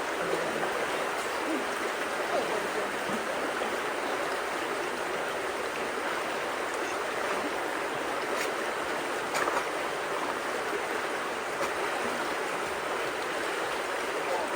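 Steady rush of swollen creek water pouring through and around a culvert, with a few faint splashes or ticks.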